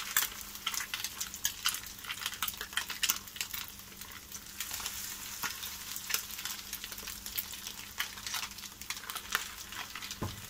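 Crab stick fritters frying in hot oil in a pan: a steady sizzle with many sharp crackles and pops, as spoonfuls of batter are laid into the oil.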